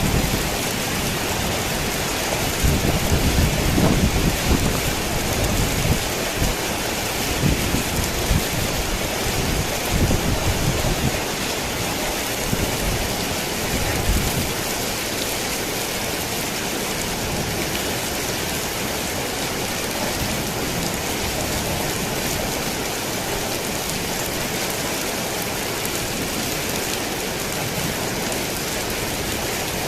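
Rain falling steadily on a thick tin roof, with low rumbles of thunder through the first half that die away about fourteen seconds in.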